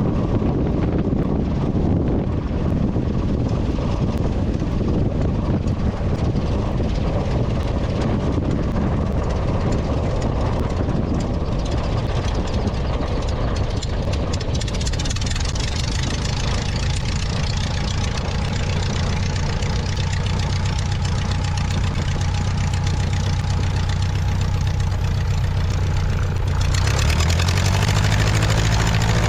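A light aircraft's engine and propeller running steadily, loud throughout. The sound changes abruptly about 15 s in, with more hiss, and again about 27 s in, where it gets louder with a steady low hum.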